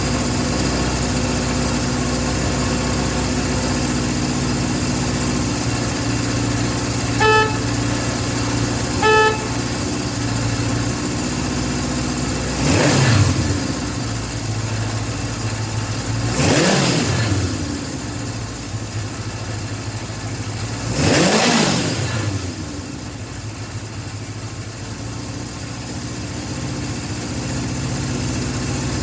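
Honda CB750 Four's air-cooled inline-four engine idling, with two short beeps of the horn, then three quick throttle blips, each revving up and falling back, before it settles to a steady idle.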